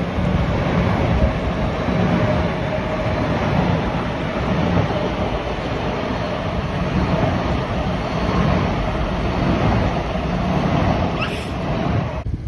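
Passenger train running past at close range: a steady rumble of wheels on rail with a faint steady whine over it. It cuts off abruptly near the end.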